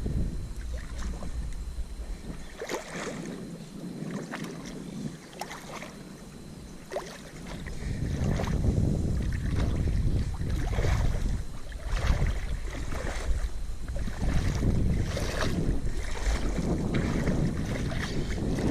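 Wind buffeting the microphone as a low rumble that grows heavier about eight seconds in, with scattered irregular knocks and clatter from handling.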